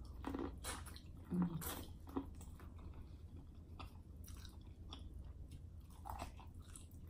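A person biting into a piece of corn on the cob and chewing it, with small clicks and mouth smacks scattered throughout.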